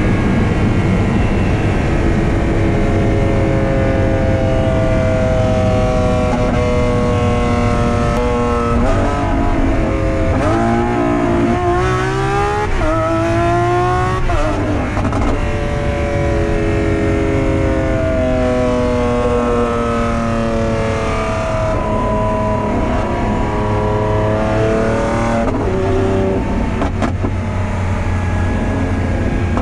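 Lamborghini Aventador SVJ's V12 engine through a Novitec exhaust, pulling hard at speed. About eight seconds in the revs jump, then climb steeply through a couple of quick gearshifts. From about fifteen seconds in the revs fall slowly as the throttle comes off, with a brief rise again later.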